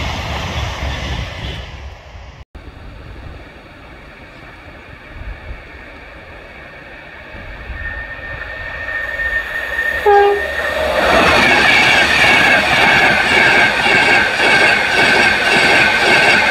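LNER InterCity 225, a Class 91 electric locomotive with Mark 4 coaches, sounding a short horn blast about ten seconds in and then passing at speed. The pass is a loud, sustained rush of wheels on rail with a steady high whine. Earlier, a previous train fades away and is followed by a quieter lull.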